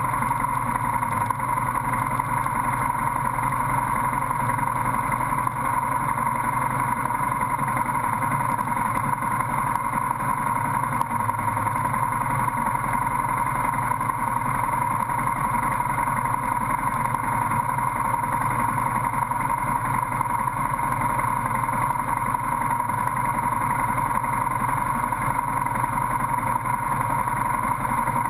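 Steady drone of a motorcycle engine idling in stopped traffic, picked up by a camera mounted on the bike.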